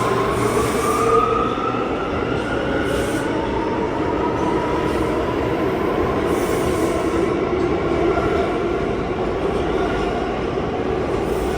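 R179 subway train moving along the track with a steady, loud running noise and drawn-out wheel squeal tones that slowly shift in pitch.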